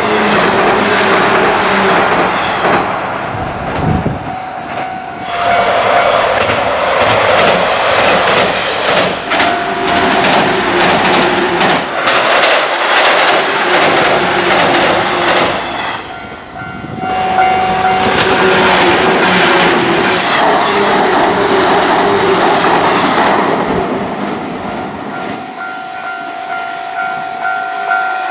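Electric local trains passing close by over a railway bridge, their wheels clattering rapidly over the rail joints above a steady motor hum. The sound breaks off and starts again about four seconds in and again around seventeen seconds, as one pass gives way to the next, and fades near the end as the last train draws away.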